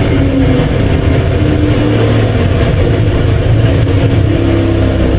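BMW M5 E39's 4.9-litre V8 running loud at fairly steady revs on track, its pitch rising a little about four seconds in.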